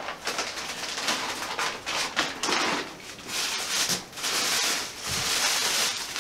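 Plastic packaging crinkling and rustling in uneven bursts as a part is unwrapped by hand, loudest in the second half.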